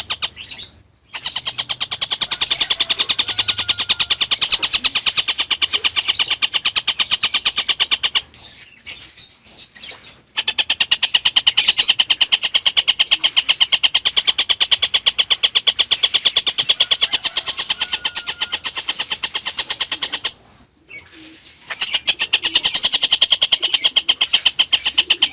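Tengkek buto kingfisher singing a long, very fast, high trill of tightly packed repeated notes. It breaks off twice, about 8 and 20 seconds in, for a second or two each time.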